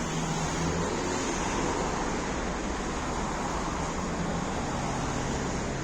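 Inside a MAZ-105 diesel city bus: steady hum of the engine with road and body noise, the low engine note dropping about a second in.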